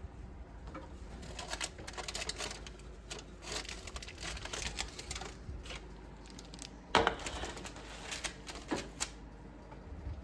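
Irregular light clicks, taps and clatters from objects being handled, with a sharper knock about seven seconds in.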